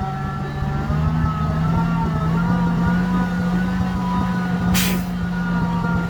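Diesel engine of heavy earthmoving machinery running steadily under power, getting louder in the first second, with a wavering whine above it. A short burst of hissing air comes about five seconds in.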